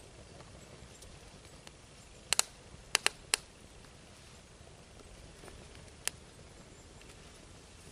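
A burning log of an Indian candle (Swedish fire torch) fire, crackling with a few sharp pops: a quick pair about two and a half seconds in, two more around three seconds, and a single pop about six seconds in.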